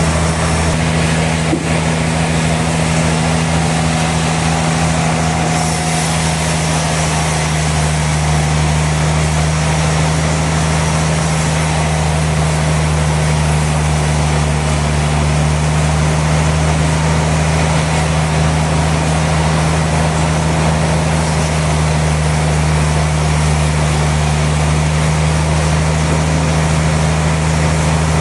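Sawmill machinery running steadily: a constant low hum with a hiss over it, and one short knock about a second and a half in.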